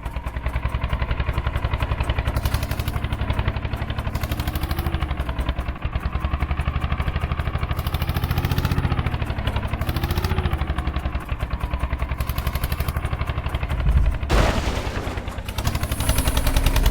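Eicher 241 tractor's single-cylinder diesel engine running with a rapid, even thumping beat. The engine speed rises and falls a little around the middle, and a louder rush of noise comes in near the end.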